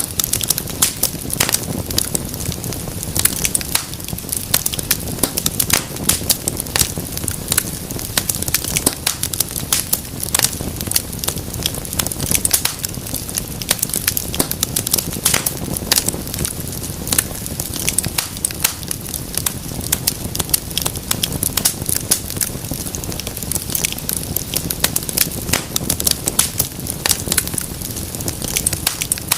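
Wood fire burning in a fireplace, crackling and popping in a dense, irregular stream of sharp snaps over a steady low rumble of flames.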